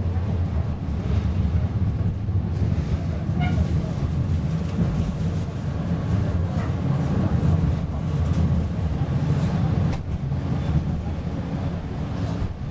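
Inside a PESA Fokstrot tram under way: a steady low rumble of wheels on rails and running gear. There is a brief pitched squeal about three and a half seconds in and a sharp click about ten seconds in.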